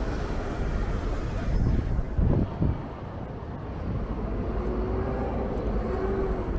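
Strong wind buffeting the microphone in a constant low rumble, with a stronger gust about two seconds in, over outdoor street noise.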